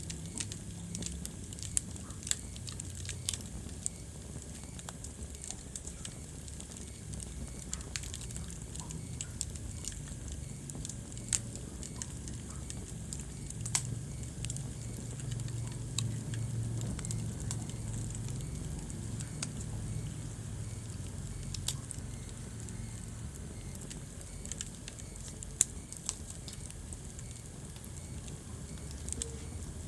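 Wood fire crackling in a fireplace: irregular sharp pops and snaps over a steady low rumble of the flames, with one louder pop about three quarters of the way through.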